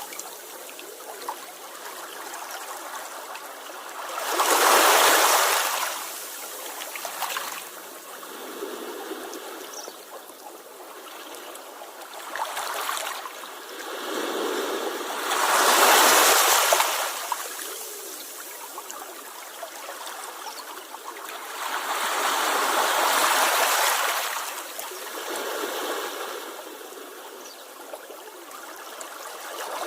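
Sea waves washing onto the shore: a steady rush of water that swells as larger waves break, loudest three times, near the start, about halfway through and again a few seconds later.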